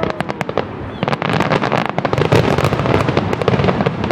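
Fireworks display: a rapid series of sharp bangs and crackles, growing into a dense crackling volley about a second in.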